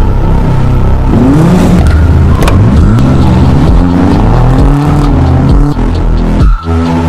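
Nissan 240SX engine revving and accelerating, its pitch rising and falling several times, with a brief sharp drop near the end, over background music.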